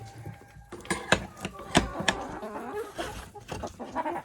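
Hens clucking softly and trilling, with a few sharp clicks or knocks between one and two seconds in.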